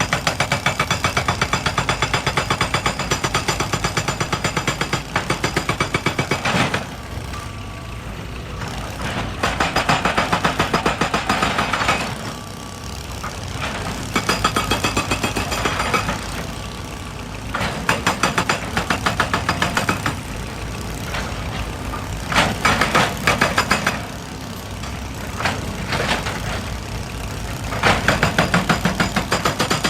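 Excavator-mounted hydraulic rock breaker hammering in rapid, evenly spaced blows, working in bursts of a few seconds that stop and start repeatedly. Between the bursts the excavator's diesel engine keeps running.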